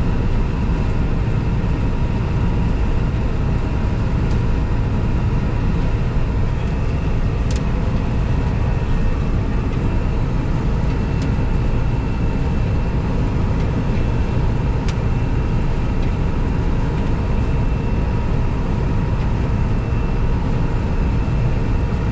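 John Deere 9650 combine running steadily while harvesting soybeans, heard from inside the cab: a constant mechanical drone of engine and threshing machinery with several steady whining tones. A few faint clicks come through now and then.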